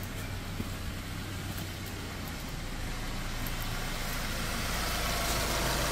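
Subaru Forester flat-four boxer engine idling steadily just after start-up, growing gradually louder toward the end.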